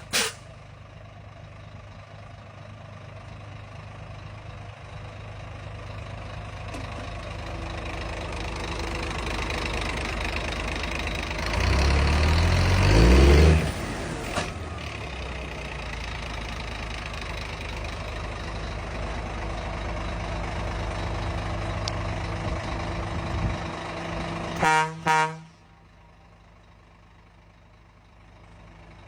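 Remote-control Scania truck's engine sound running steadily and slowly building, with a louder rev lasting a couple of seconds about twelve seconds in. Near the end come two short horn toots, after which the engine sound drops to a low idle.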